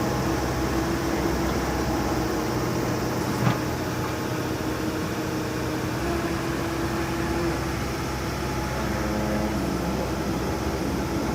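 Komatsu PC78US-8 excavator's diesel engine running steadily, its tone shifting slightly a couple of times, with a single brief click about three and a half seconds in.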